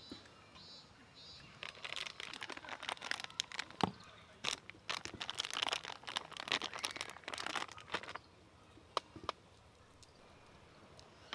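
Crinkling, crunching handling noise: a dense run of small crackles lasting about six seconds, followed by a couple of separate clicks.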